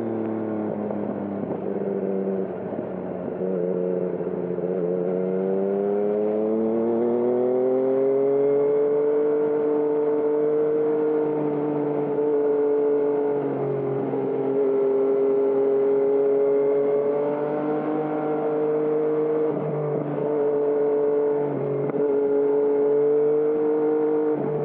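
2020 Yamaha MT-09 inline-three through a Termignoni aftermarket exhaust, ridden on the road: the engine note drops for a few seconds as the throttle eases, climbs steadily under acceleration, then cruises at a fairly even pitch with a few brief dips.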